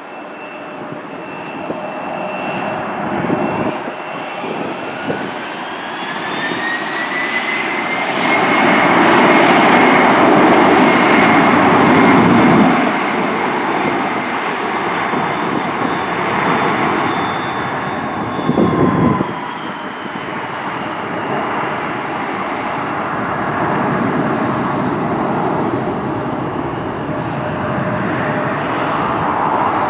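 Jet airliner passing, its engines roaring with a whine that rises in pitch as it draws near. The roar is loudest about eight to twelve seconds in, and the whine drops in pitch as it moves away. A short louder rush comes near the twentieth second.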